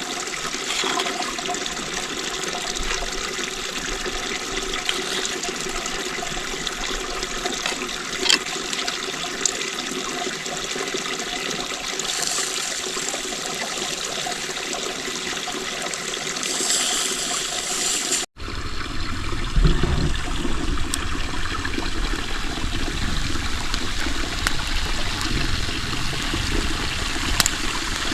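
Running water, flowing steadily. It breaks off abruptly about eighteen seconds in and resumes with a deeper rumble added.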